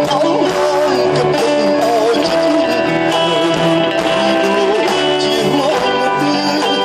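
Band music from a Khmer pop song: guitar and a wavering lead melody over a steady bass line and beat.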